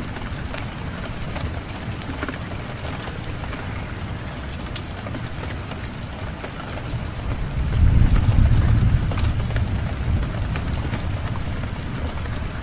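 Fireplace fire crackling with scattered sharp pops, over a low wind rumble that swells into a gust about eight seconds in and then eases.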